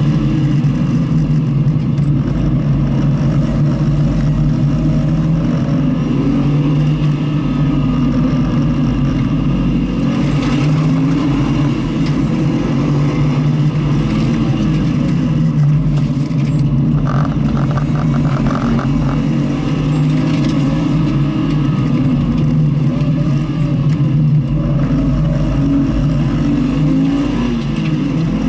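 Car engine running loudly and continuously under load, its note wavering up and down with the throttle.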